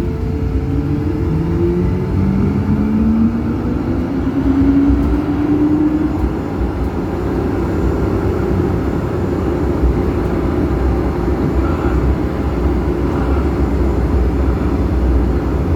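Electric tram pulling away: the traction motors whine, rising in pitch over the first six seconds or so as it gathers speed, then the steady rumble of the wheels running on the rails.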